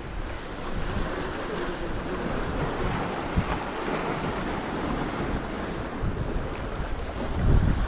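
Steady wind and sea noise, with wind buffeting the microphone near the end.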